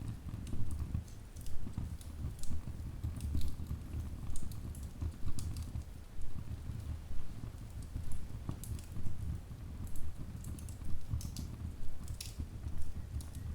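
Wood fire burning in a fireplace: a low steady rush of flames with irregular crackles and snaps from the burning logs.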